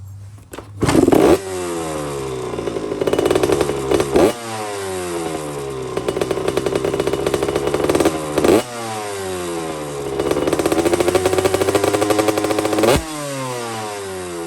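1994 Honda CR250R's freshly rebuilt two-stroke single-cylinder engine running and revved sharply four times, the revs falling back after each blip.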